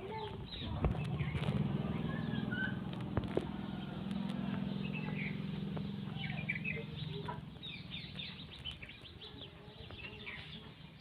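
Outdoor birds chirping and twittering, many short calls overlapping. A low steady hum, like a distant engine, comes in about a second and a half in and fades after about seven seconds. There are a couple of sharp knocks in the first few seconds.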